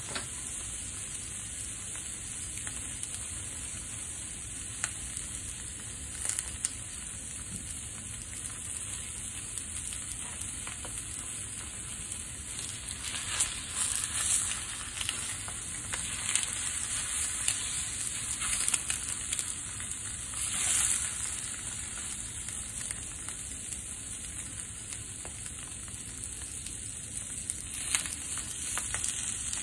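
Steak pieces and fried eggs sizzling steadily in a nonstick frying pan, with scattered small crackles. The sizzle swells louder a few times midway and near the end as the food is moved and the eggs are turned with a spatula.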